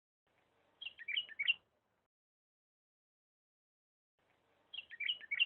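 Bulbul singing two short phrases, each a quick run of whistled notes lasting under a second: one about a second in and one near the end, with silence between.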